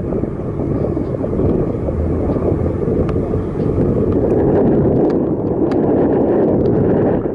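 Wind buffeting the microphone while riding a bicycle, a loud, steady rushing noise with a few light ticks; it drops off sharply at the very end.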